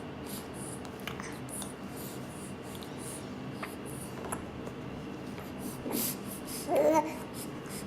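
Faint scrapes and clicks of a spoon feeding a baby, over a steady low hum. A brief vocal sound comes near the end.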